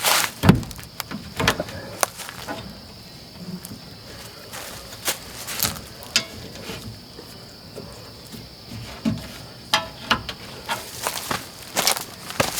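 Scattered knocks, clicks and light clatter, the loudest about half a second in, over a steady high buzz of insects.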